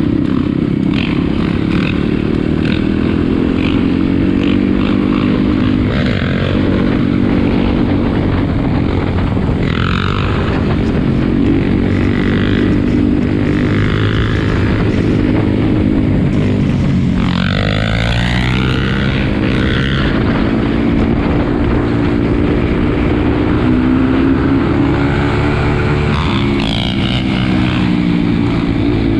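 Several four-wheeler (ATV) engines running together and revving, their pitches shifting, with one sharp rising rev a little past halfway.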